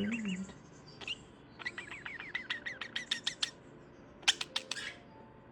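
Budgerigar chattering: a fast run of high chirps, about eight a second, starting a second and a half in, then a few sharp high chirps near the end.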